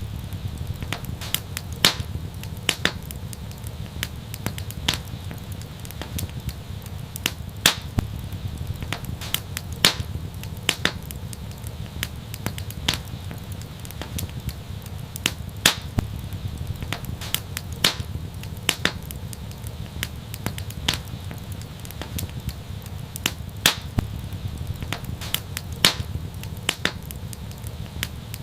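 Wood fire crackling: irregular sharp snaps and pops, a few of them louder, over a steady low rumble.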